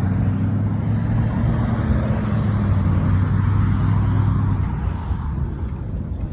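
A motor vehicle's engine running close by with a steady low hum, fading out about five seconds in, over road and wind noise.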